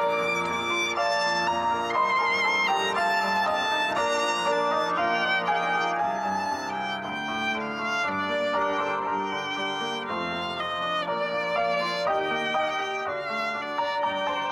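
Violin playing a melody with vibrato over lower sustained accompanying notes.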